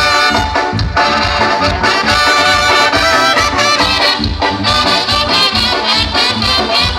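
Band playing an instrumental passage led by brass, with trumpets and trombones over drums and bass keeping a steady beat.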